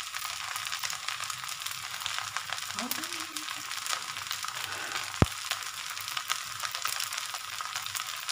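Masala rice sizzling in hot oil in a pan, a steady crackling hiss with many small pops. A single sharp knock about five seconds in.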